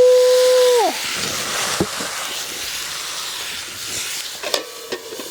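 Chicken steaming and sizzling in a hot pan over a campfire, a steady hiss. In the first second a loud, clear held tone rises, holds and then drops away, and a few small clicks come later.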